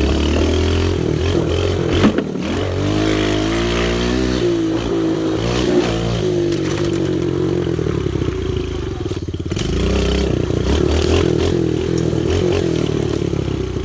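Pit bike engine running while being ridden on a dirt trail, revving up and easing off again and again as the throttle opens and closes. A sharp knock about two seconds in.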